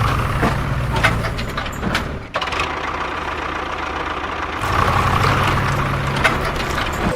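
Heavy diesel engine of construction machinery running steadily, with scattered sharp knocks and clatter. The sound changes abruptly about two seconds in and again past halfway.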